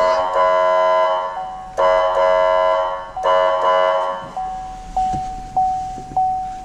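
Fire truck warning devices sounded from the cab: three long, chord-like horn blasts, each starting sharply and fading, then a single steady electronic tone with a short regular pulse about every half second.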